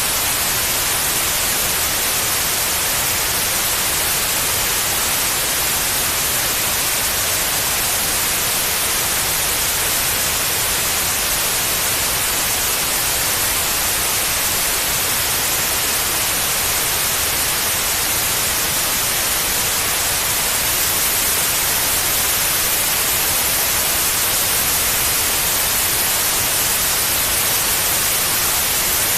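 Steady white noise: an even, unbroken hiss, strongest in the high frequencies, played as a sleep aid for babies.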